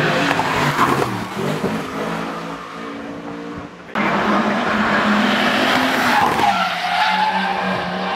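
Classic racing car engines running hard at high revs, the first one fading away before the sound cuts abruptly to another loud car about four seconds in; its engine note changes pitch a couple of seconds later.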